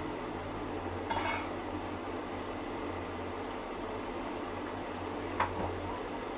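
A metal cooking utensil knocking against a pot, twice: once about a second in and once near the end. Under it runs a steady low hiss and hum.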